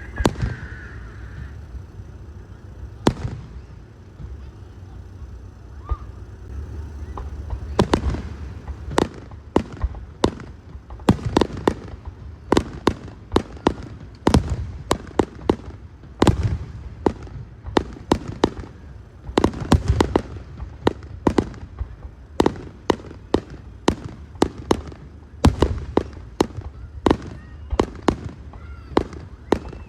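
Fireworks display going off: a few scattered bangs at first, then from about eight seconds in a rapid string of sharp bangs, several a second, over a low rumble.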